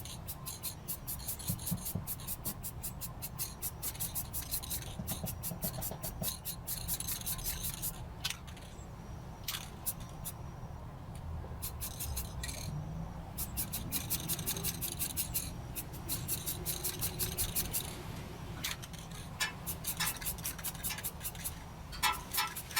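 Rapid repeated scraping or scrubbing strokes against a hard surface, coming in runs with short pauses between them.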